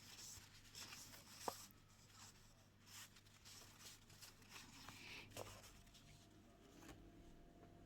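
Faint rustling of paper pieces being handled and sorted, with small clicks and one sharp tap about a second and a half in.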